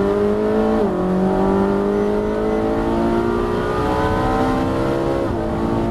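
Car engine accelerating hard at full throttle, its pitch climbing steadily. The pitch drops sharply twice, about a second in and near the end, as the automatic gearbox shifts up.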